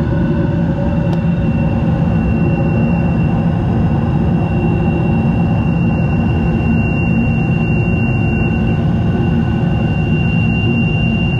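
Furnace motor running with a steady hum and a thin, high-pitched whine on top, a sound judged not to sound good.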